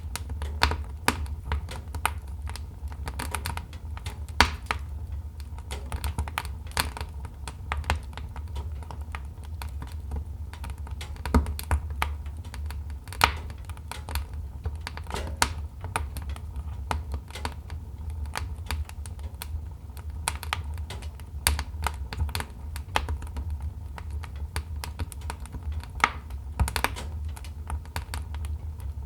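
Wood fire crackling in a fireplace: dense, irregular snaps and pops, a few louder sharp cracks among them, over a steady low rumble.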